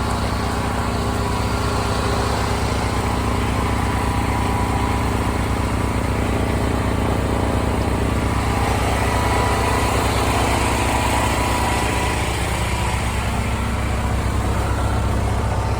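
A tractor engine and a portable generator running steadily together at close range, loud enough to drown out a voice.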